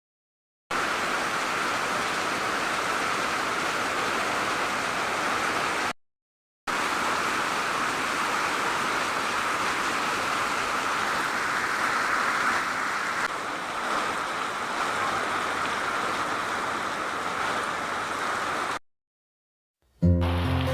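Steady rushing water, unbroken apart from two abrupt cuts to silence, at about six seconds and about nineteen seconds in.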